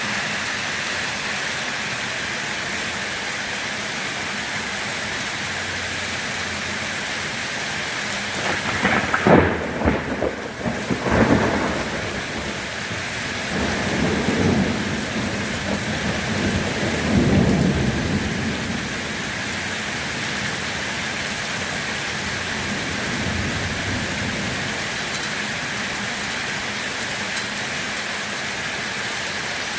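Steady rain hissing, with a crack of thunder about nine seconds in followed by low rolling rumbles that die away over the next several seconds.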